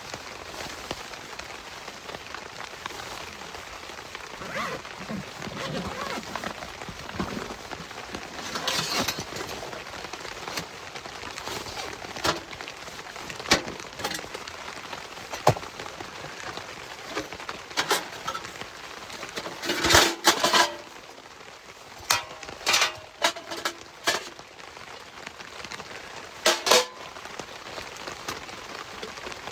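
Heavy rain pattering steadily on the tent fabric, heard from inside the tent, with scattered sharp knocks and short bursts of clatter from gear being handled, the loudest about two-thirds of the way through.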